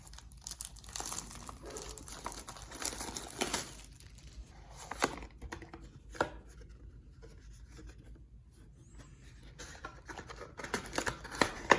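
Plastic shrink wrap being torn and crinkled off a Pokémon TCG booster box as it is opened, with irregular rustling and a few sharp clicks, quieter for a few seconds in the middle before picking up again near the end.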